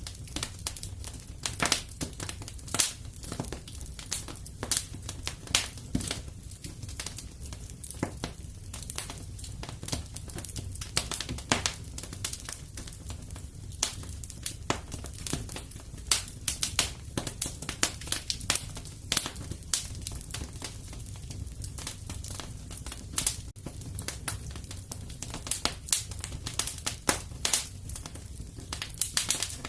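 Wood fire burning in a fireplace: irregular sharp crackles and pops, several a second, over a low steady rumble of flames.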